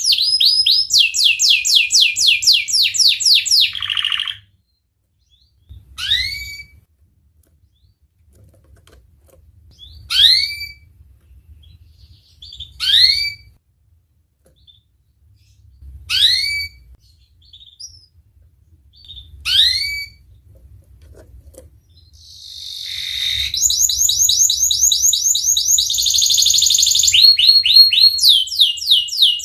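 Domestic canary singing. It opens with a fast rolling trill for about four seconds, then gives single rising chirps every three seconds or so, and breaks into long rapid trills again for the last seven seconds.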